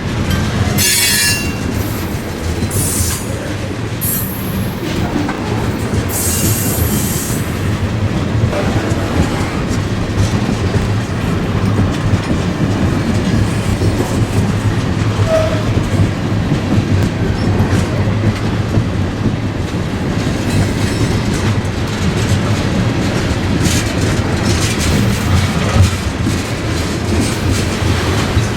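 Freight train on the move with a steady low rumble; its wheels give several short, high-pitched squeals in the first seven seconds or so.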